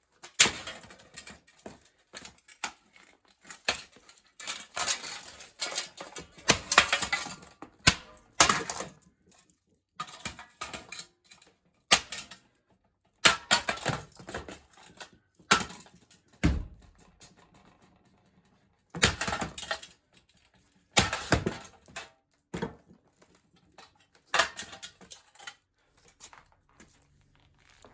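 A small sledgehammer striking a cracked-open Seasons ceiling fan, with the clatter and rattle of its metal housing and loose parts. The blows come irregularly, singly and in quick runs, with short pauses between.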